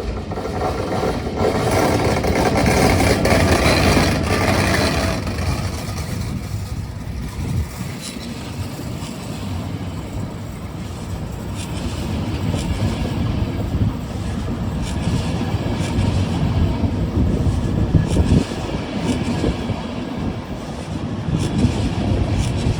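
ZSSK class 362 electric locomotive and its train moving through the station: a steady rumble of wheels on rail, loudest in the first few seconds, with patches of hissing later on.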